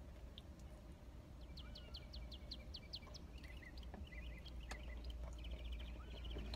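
Birds chirping: a quick run of about ten short high notes, then scattered chirps and short trills, all faint over a steady low hum.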